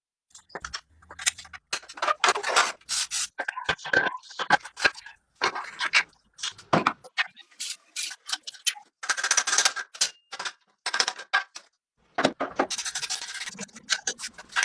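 Hand tools scraping and rubbing on motorcycle parts during restoration work, in irregular short strokes with sharp clicks and brief pauses between them.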